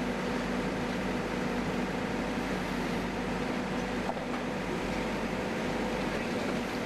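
Backhoe engine running steadily, a constant hum with no change in speed.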